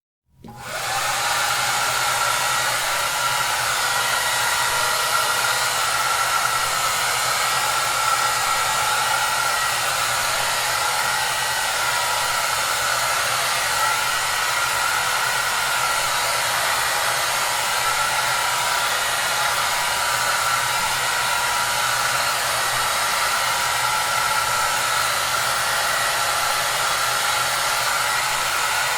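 Hair dryer running steadily: a rush of blown air with a constant motor whine and low hum. It comes in from silence about half a second in.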